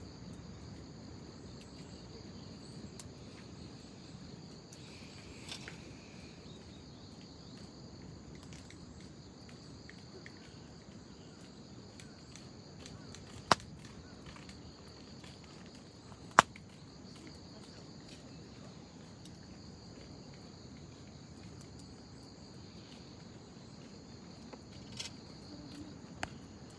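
Wood fire burning with occasional sharp pops: two loud ones about three seconds apart mid-way and a few fainter ones near the end. A steady high chirring of insects carries on throughout.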